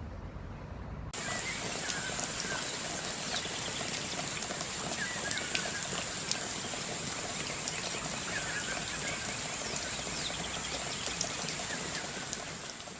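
Steady water sound like rain pattering, full of small drip-like ticks, with a few short chirps over it; it begins suddenly about a second in and fades out near the end.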